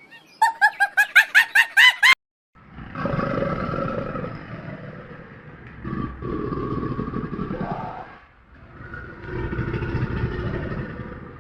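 A quick run of about nine sharp, rising chirping calls that cuts off suddenly. Then comes a large animal's three long, rough growling calls, each lasting two to three seconds.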